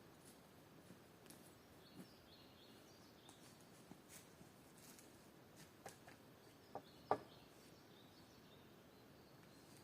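Quiet forest ambience: faint distant bird chirps and a few scattered light clicks, the sharpest about seven seconds in.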